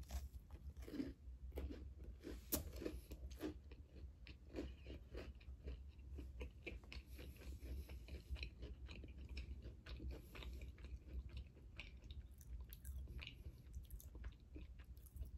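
A person biting into and chewing a red velvet cookie with white chocolate chips: faint, irregular clicks of mouth and teeth.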